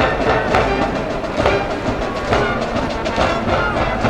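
High-school baseball cheering band playing a cheer song: brass carrying the tune over a steady drum beat struck about once a second.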